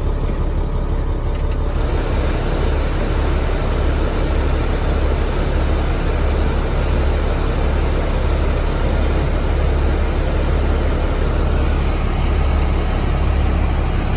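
Military truck's diesel engine idling steadily, heard from the cab. A click comes about a second and a half in, and then a steady rushing hiss of air, which fits the cab vent blower being switched on.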